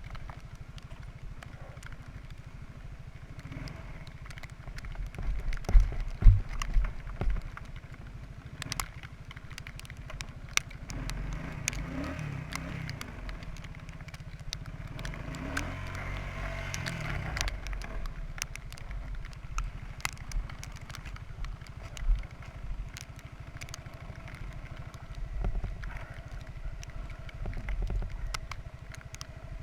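Quadrunner 300 ATV engine running, revving up and easing off twice, with knocks and clatter from the machine, loudest about six seconds in.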